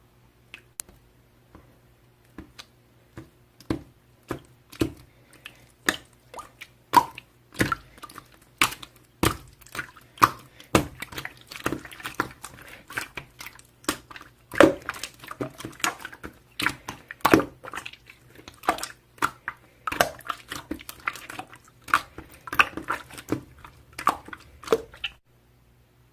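Slime being squeezed and pressed by hand, making irregular sticky pops and clicks that grow busier after a few seconds and stop about a second before the end.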